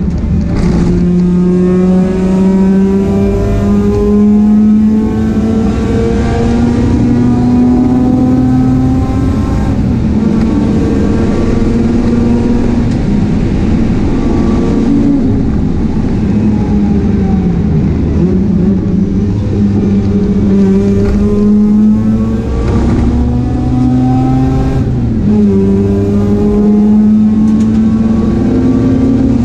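Mazda RX8 race car engine under full throttle, its pitch climbing steadily and then dropping sharply at each gear change, repeatedly through the lap. Around the middle it eases off and the pitch sags for a few seconds before climbing again.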